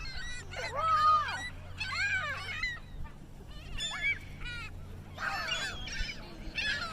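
A flock of seagulls calling over one another, many short squawks in quick succession with a brief lull partway through, as the gulls crowd in on thrown bird seed.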